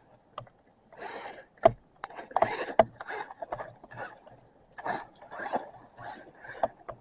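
A run of irregular rustling crunches, a few each second, with sharp clicks among them, like movement through grass.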